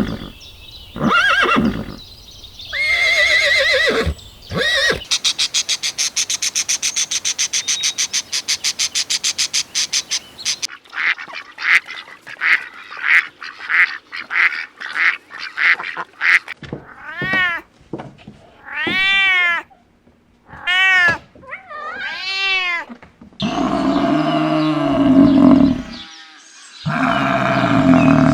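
A run of different animal calls, one kind after another: short calls at the start, a fast, even pulsing sound for about five seconds, a series of rising-and-falling calls, and harsher, lower calls near the end.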